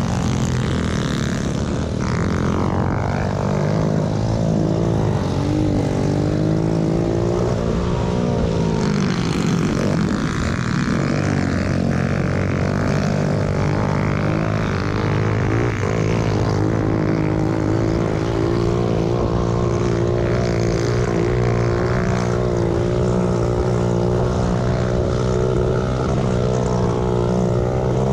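Pit bike engine running hard, its pitch climbing and dropping with the throttle in the first ten seconds, then holding fairly steady.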